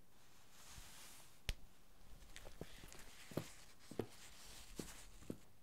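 Faint rustling of a barber's cloth cape and a sharp click about one and a half seconds in, then a run of footsteps on a hard floor, roughly one every half second to a second.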